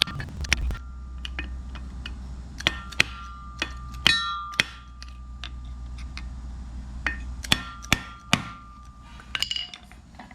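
Hammer blows on metal during propeller shaft repair work: a dozen or so sharp, irregularly spaced strikes, several leaving a brief metallic ring.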